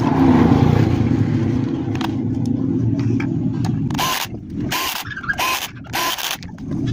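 A steady mechanical whir for about four seconds, then four hammer taps on the standing fan's metal motor housing, each ringing briefly. The taps seat the motor's end cap so that the rotor sits centred.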